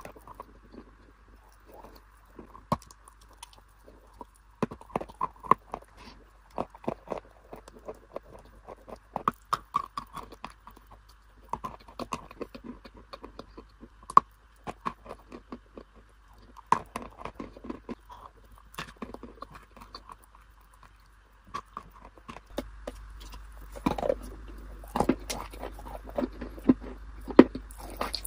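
Close-miked mouth sounds of a person biting and chewing crunchy treats: irregular sharp crunches between softer chewing. About three-quarters of the way through, the background hiss gets louder and the crunching goes on.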